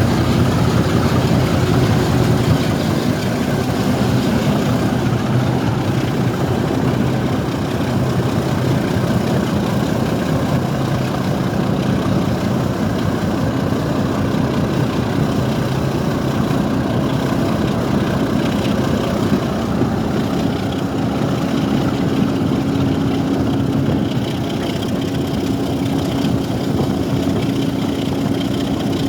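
Class 27 diesel locomotive's Sulzer engine working hard as it pulls away, a loud, steady heavy diesel note; its note steps up a little about twenty seconds in. Wind buffets the phone's microphone.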